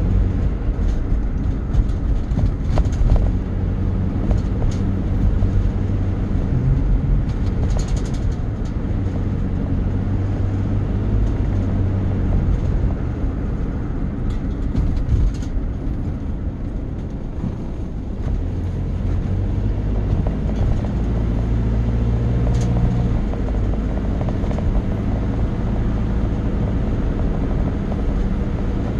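Vehicle running with a steady low engine drone and rumble, a few light clicks and knocks over it.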